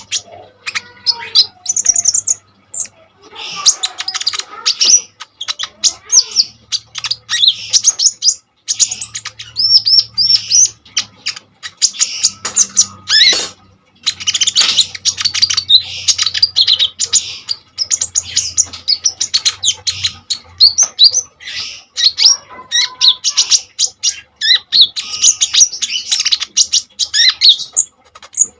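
Kolibri ninja (Van Hasselt's sunbird) singing vigorously: a dense run of rapid, high chirps and trills with only brief pauses.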